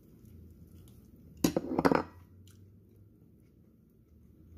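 Biting into and chewing a slice of homemade almond-flour keto pizza close to the microphone: one loud crunching burst about a second and a half in, lasting about half a second, then quieter chewing.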